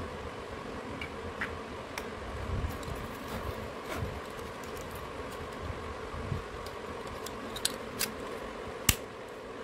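Scattered light clicks and taps, a sharper click near the end, over a steady hum.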